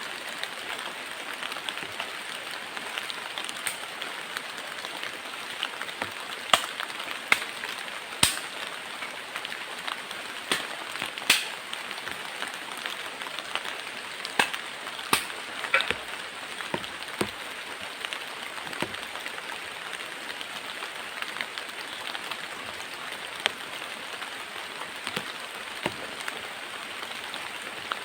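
Heavy rain falling steadily, with scattered sharp taps from single drops, thickest through the middle.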